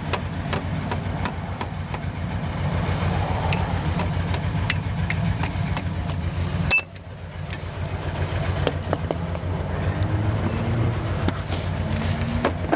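Ford Mustang's engine idling with a steady low drone and a regular light ticking, about three ticks a second, in the first half. The sound drops out briefly about seven seconds in, then the idle carries on.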